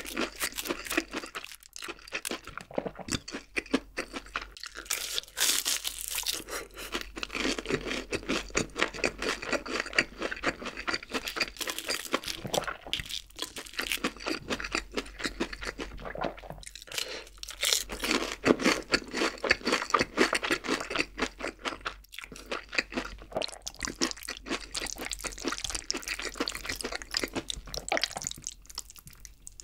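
Close-miked eating: crisp, rapid crunching and chewing of a fried breaded pork cutlet, with short pauses between bites.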